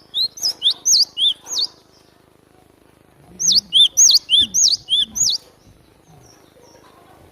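Cinereous tit (glatik batu) singing: two bursts of quick, sharp, high whistled notes, each note sweeping down, about six in the first burst and eight in the second a couple of seconds later. The song is used as a lure call to attract the same species.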